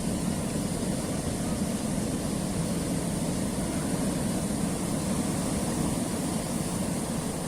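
Sea waves on a rocky shore: a steady, low rumble of surf without distinct breaks.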